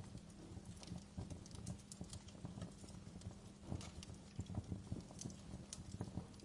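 Wood fire crackling in a stone fireplace: irregular sharp snaps and pops over a steady low rumble of the flames, with a denser cluster of pops around the middle.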